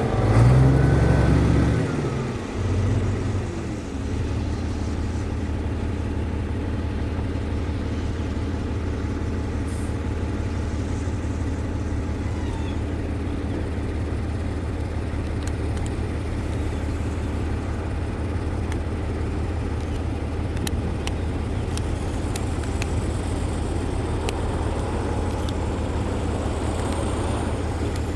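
Diesel engine of heavy road-building equipment running under load. It is louder and shifting for the first couple of seconds, then settles into a steady low drone.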